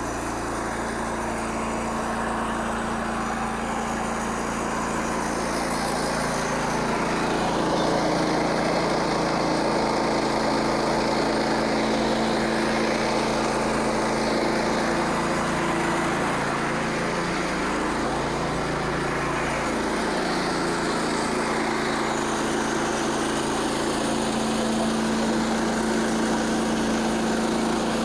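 Small gasoline engine of a Frontier OS27 portable bandsaw mill running steadily, its pitch dipping and recovering about two-thirds of the way through, as it does when the blade takes load.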